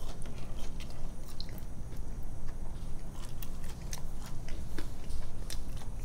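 A person biting into a fried cod sandwich on a soft bun, then chewing it, with many small, sharp mouth clicks throughout.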